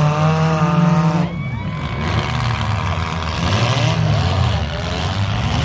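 Demolition derby car engines revving: one held at high revs drops off sharply about a second in, then engines rise and fall in pitch as the cars move around the arena.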